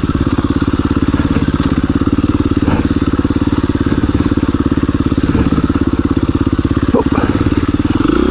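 KTM 350 EXC-F dirt bike's single-cylinder four-stroke engine running at low, steady revs with distinct firing pulses as it is ridden slowly through a rut, with a couple of sharp knocks from the bike over the ground, one near the end.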